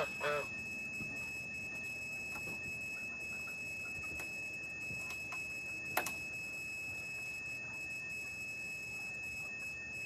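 A goose's honk trails off at the very start, over a steady high-pitched whine that never changes. A few faint chirps follow, and one sharp click comes about six seconds in.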